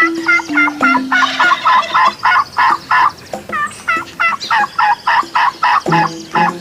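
Turkeys gobbling: a rapid, rattling run of warbling calls repeated over and over, several a second.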